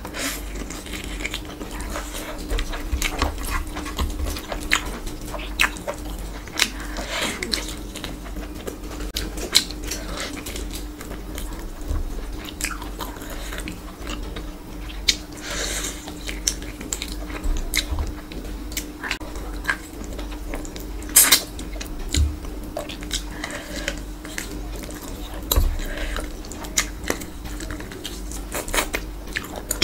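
Close-miked chewing of handfuls of spiced rice and mutton curry eaten by hand, with many short wet smacks and clicks of the mouth throughout. A faint steady hum runs underneath.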